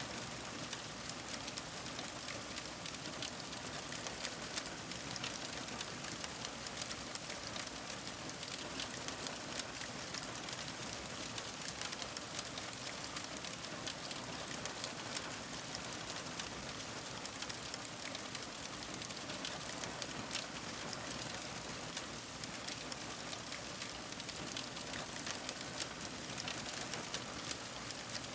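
Fire crackling: a dense, steady stream of small pops and snaps that keeps on without a break.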